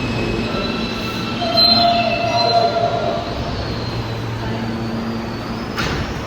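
New York City subway train running through the station, its wheels squealing in several steady high pitches that peak about one and a half to three seconds in, over the rumble of the cars. A brief sharp noise near the end.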